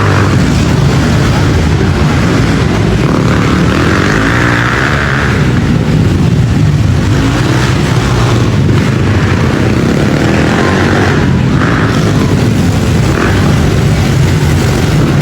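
Pit bike engines running hard during a race, a loud, continuous engine din.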